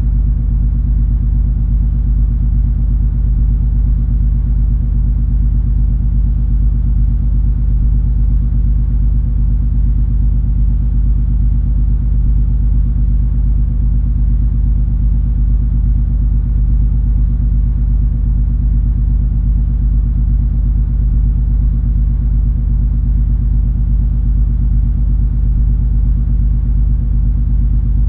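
Ship noise of the cruise ferry MS Color Magic under way: a steady, unchanging low rumble and engine drone with a few held low hums in it.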